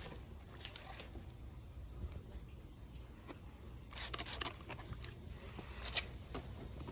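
Faint handling sounds from detailing a motorcycle by hand: a short burst of quick rustling, hissy strokes about four seconds in and a sharp click near the end, over a steady low rumble.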